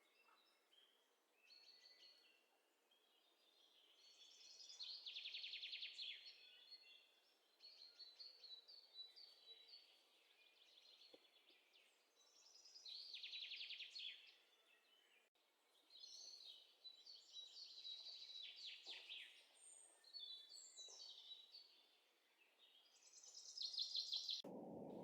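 Faint birdsong: bursts of high chirps and short trills, each lasting a second or two, recurring several times.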